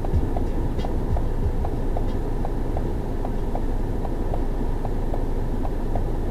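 Car engine running with a steady low rumble, with a light, regular ticking about three times a second.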